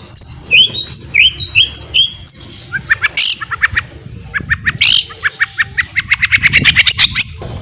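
White-rumped shama (murai batu) singing: a few sharp, repeated whistled notes, two louder harsh calls, then a fast, quickening run of short notes. This is the rapid 'ngeriwik' chatter that shama keepers play to spur other birds into song.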